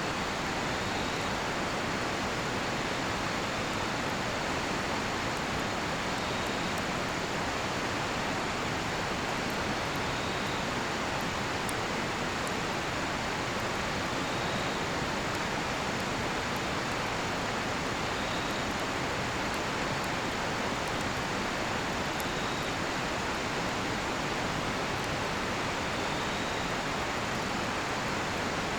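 Steady rushing of a river, with faint crackles from a cedar-wood campfire. A cricket gives a short chirp about every four seconds.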